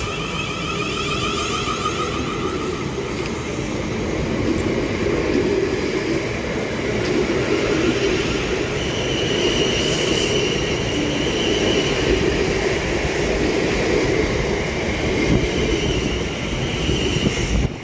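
Electric multiple-unit passenger train running along the line, heard from inside the carriage: a steady rumble of wheels on track, with a thin high whine that comes and goes about halfway through and again near the end.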